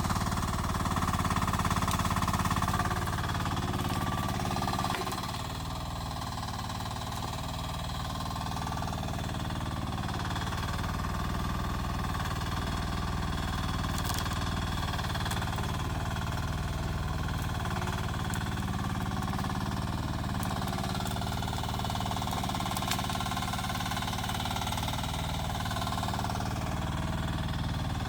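Rippa R10 mini excavator's engine running steadily as the machine works, a little louder in the first few seconds, with a few faint clicks.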